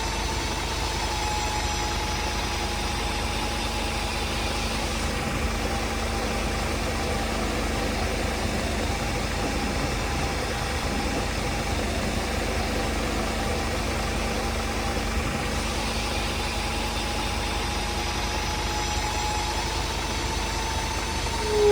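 Scania P270 truck's diesel engine idling steadily.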